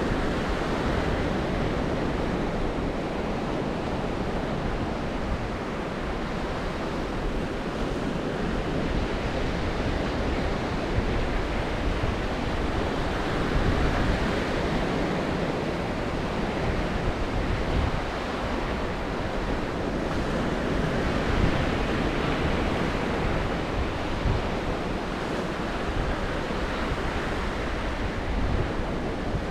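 Black Sea waves breaking on the shore, a continuous wash of surf that swells and eases every few seconds. Strong wind buffets the microphone, adding a low rumble.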